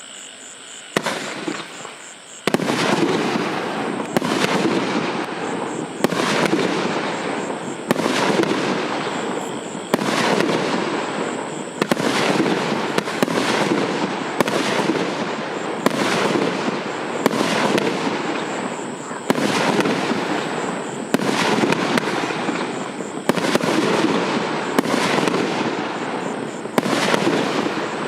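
OTC 5130 "Попутный ветер" multi-shot fireworks battery firing shot after shot, a sharp report every one to two seconds, each followed by crackling.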